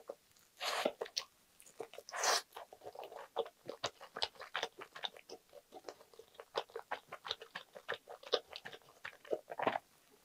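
Close-miked eating of a butter-toasted Spam, egg and lettuce sandwich: bites into the toasted bread give louder crunches about one and two seconds in and again near the end. In between is a steady run of small crackling crunches as the toast and crisp lettuce are chewed.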